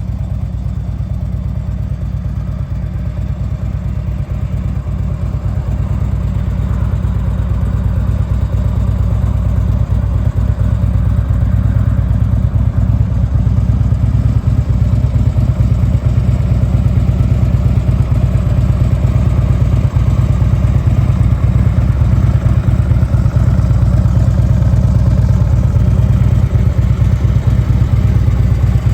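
Harley-Davidson Street Glide's 96 cubic inch Twin Cam V-twin idling steadily through Screaming Eagle mufflers. It grows a little louder over the first dozen seconds or so, then holds even.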